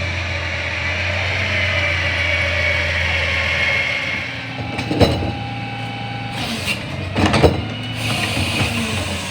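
CNG Freightliner McNeilus rear-loader garbage truck running with a steady whine over the engine hum, then a sharp metal bang about halfway through and a burst of clanks a couple of seconds later.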